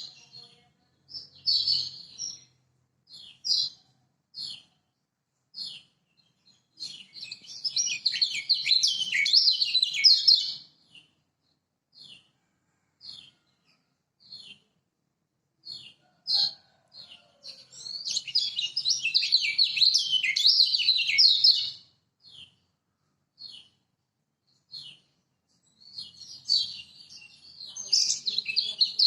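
Kecial kuning (Lombok yellow white-eye) singing: single short, high chirps spaced out, breaking three times into several seconds of rapid, dense twittering song.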